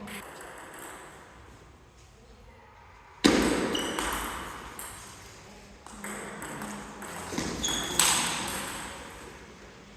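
Play in a table tennis match in a large hall: two sudden loud sounds, about three seconds in and again about eight seconds in, each trailing off over a couple of seconds, with a few short high squeaks between them.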